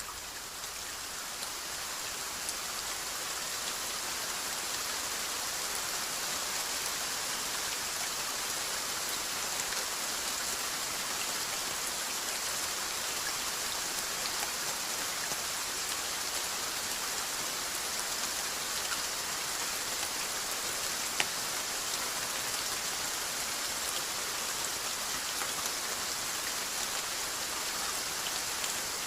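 Steady rain falling: an even hiss with scattered sharp drop ticks. It starts a little quieter and builds up over the first few seconds.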